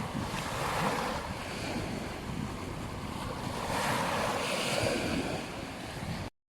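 Surf washing onto a beach, swelling about a second in and again around four seconds, with wind buffeting the microphone. The sound drops out completely for a moment near the end.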